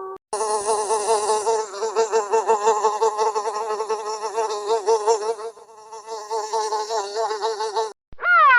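An animal's buzzing drone, wavering rapidly around one pitch, lasting about seven and a half seconds. Near the end, a short, loud call rises and falls in pitch.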